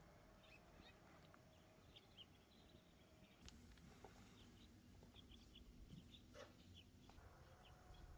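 Near silence: faint outdoor ambience with small birds chirping here and there, short high chirps scattered throughout.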